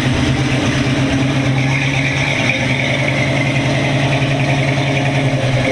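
A 1958 Chevrolet Corvette's engine running steadily at low speed as the car rolls slowly past, close by.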